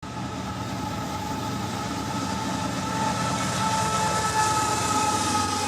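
A train running, with a continuous low rumble and two steady high tones held through the sound.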